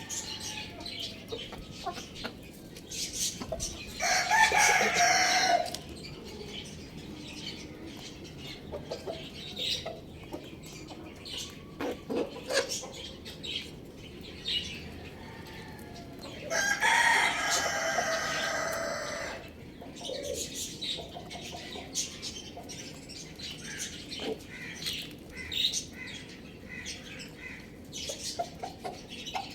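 A rooster crowing twice, a shorter crow about four seconds in and a longer one a little past halfway, among frequent short clucks and chirps from the flock.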